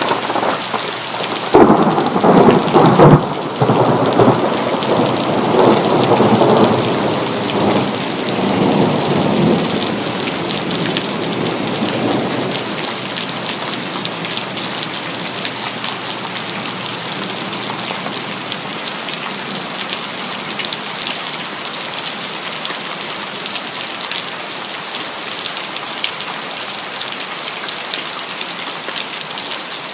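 Steady rain falling with a thunderclap: a sharp crack about a second and a half in, then a rumble that rolls on and fades out over about ten seconds, leaving the rain alone.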